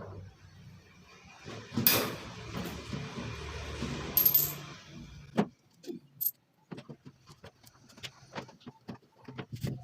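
Metallic clinking and rattling with a loud noisy clatter in the first half, then a string of separate short clicks and knocks.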